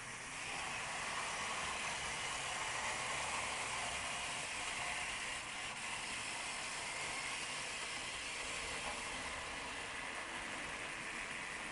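HO-scale model train running along its track: a steady mechanical whirr and rattle that swells slightly about half a second in.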